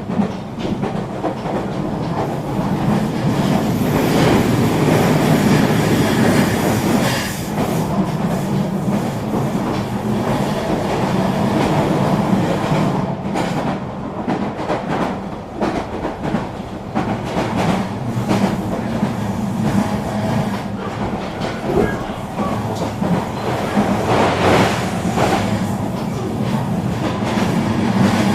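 Eurobahn RE3 regional train running along the line: a steady rumble with frequent wheel clicks over the rail joints. It swells louder about four seconds in and again near the end.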